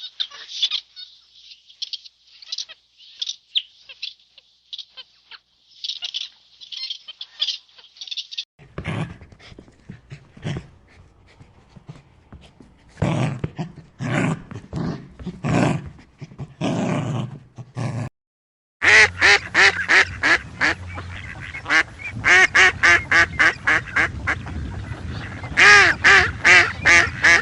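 High-pitched chirping for the first several seconds, then ducks quacking. The quacks come in scattered groups at first and then in a fast run of many quacks in a row.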